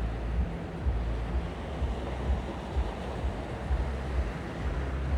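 Sea waves washing ashore in a steady hiss of surf, with wind gusting on the microphone in uneven low rumbles.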